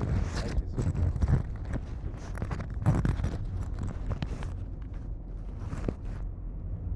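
Footsteps walking, irregular steps over a steady low rumble on the microphone.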